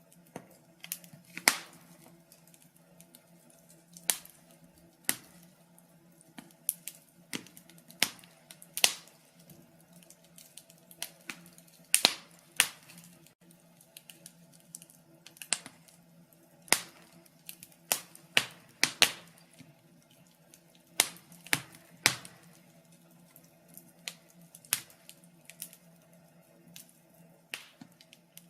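Wood fire crackling in a fireplace: irregular sharp pops and snaps, about one or two a second and some much louder than others, over a faint steady hum.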